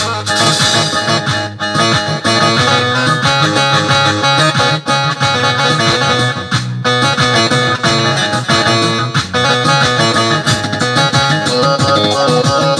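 Keyboard-app music from a Syrian sound set: a plucked-string instrument voice playing a melody without pause.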